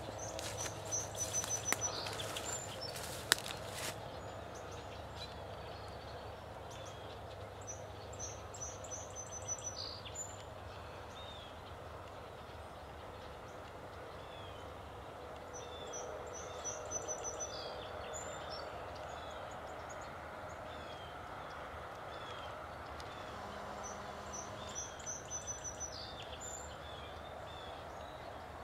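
Songbirds singing faintly: one repeats a short, high run of quick notes about every eight seconds, with soft chirps in between, over a steady low background hum. A few rustling noises and a sharp click come in the first few seconds.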